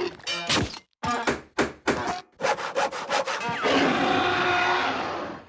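A mystery sound effect: a quick run of a dozen or so short rasping strokes, then one long rasp starting about two thirds of the way in.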